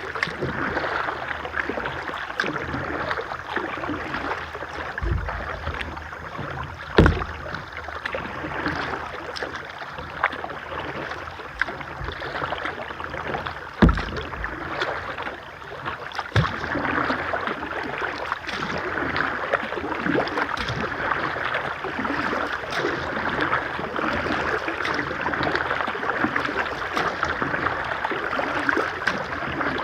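Kayak on a moving river: a steady rush of flowing water, broken by a few sharp knocks, the loudest about 7 and 14 seconds in.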